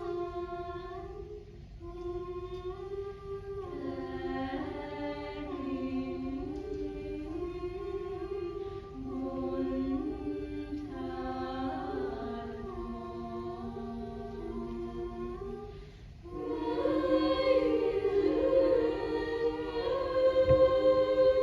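Choir singing in harmony, holding long notes in two or three parts that step up and down together. It breaks off briefly near the start and again about three-quarters of the way through, then comes back louder.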